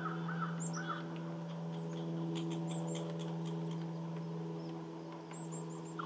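Wild birds calling: three short arched calls in the first second, then high chirps and small clicks around the middle, over a steady low hum.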